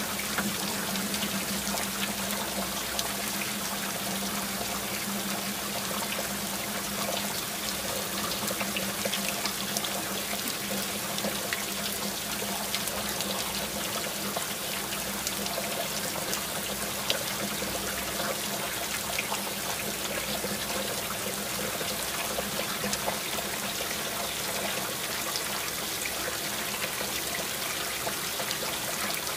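Heavy rain: a steady hiss of falling water with many separate drop hits, and water running off and trickling.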